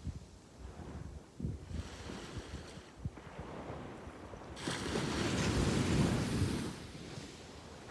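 Sea waves on a sandy beach: a wave washes in about halfway through, swelling to its loudest a little later and then dying away.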